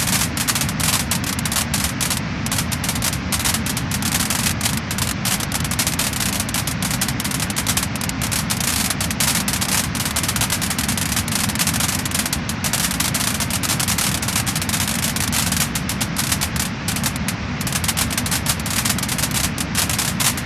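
Wood fire crackling and popping: dense, rapid crackles over a continuous hiss, at an even level throughout.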